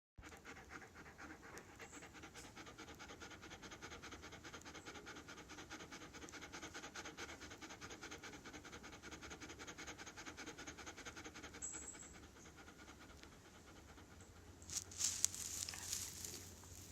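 German Shepherd dog panting fast and steadily, with a few louder rustling noises near the end.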